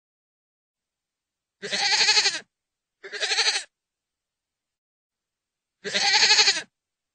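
Goat bleating: three separate wavering bleats, the second one shorter, with dead silence between them.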